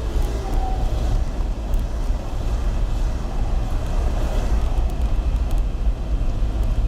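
Steady low rumble of road traffic on a snowy highway.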